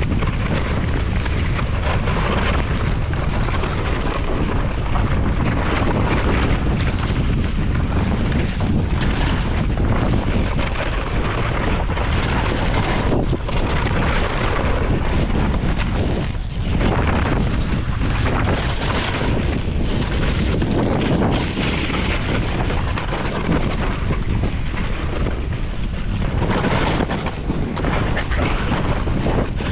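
Loud, steady wind buffeting the microphone, a low rushing rumble that rises and falls, as while riding downhill on a snowboard.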